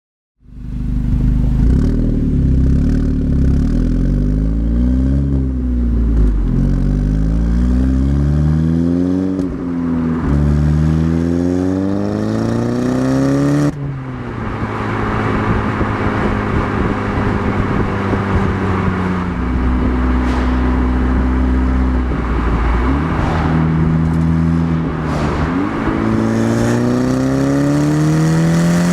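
Audi S3 8P's turbocharged 2.0 TFSI four-cylinder through a BCS Powervalve exhaust with its valve clamped partly open, accelerating through the gears: the exhaust note climbs in pitch and drops back at each shift, several times over.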